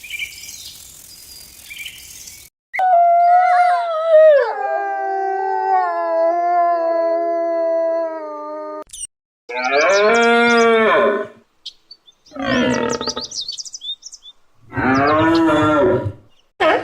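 Cattle mooing: one long drawn-out moo that drops in pitch and then holds, followed by three shorter moos. Chirping insects and birds are heard for the first couple of seconds.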